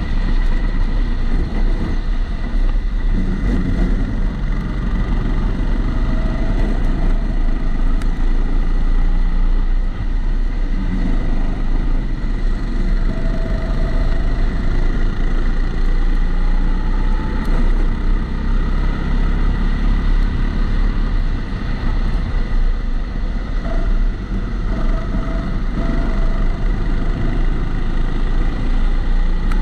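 Kombikart Eco kart engine running continuously on track from an onboard camera, its pitch rising and falling with the throttle. The camera sits in a waterproof housing, which adds a steady high whine and dulls the sound.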